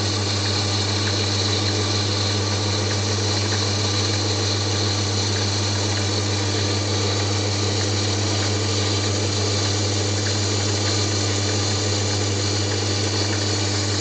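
Mini lathe running steadily at fairly low speed, with a strong low hum and a hiss, while a tungsten carbide tool takes a cut.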